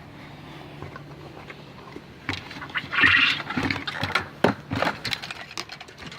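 Caged game birds calling and moving about: a harsh call about three seconds in, among scattered sharp clicks and knocks.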